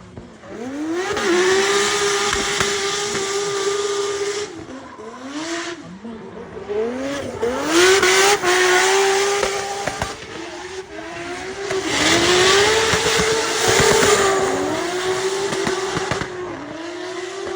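Turbocharged BMW E36 M3 S54B32 straight-six held against the rev limiter through a drift, with tyres squealing. The revs climb about a second in, then drop and climb back to the limiter several times.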